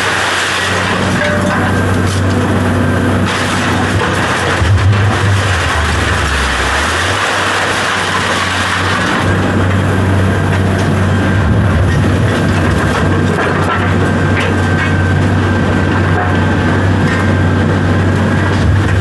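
A large engine running steadily with a deep, continuous drone, its note shifting briefly about five to seven seconds in.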